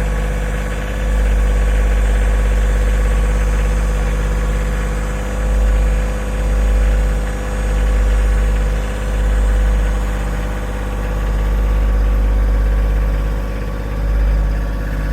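An engine idling steadily, a loud low rumble that swells and fades about once a second through the middle.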